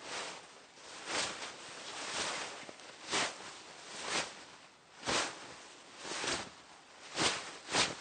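Hanbok fabric rustling in a series of swishes as the wearer moves, about one a second, with two coming close together near the end.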